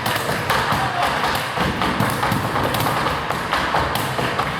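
Flamenco percussion played unamplified: a cajon struck by hand in quick, dense thumps and taps.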